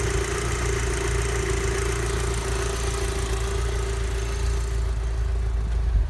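VW Scirocco R's 2.0-litre turbocharged four-cylinder idling, with a steady whine over the engine sound that fades near the end. It is an abnormal noise that began suddenly and seems to come from around the alternator; the cause is unknown.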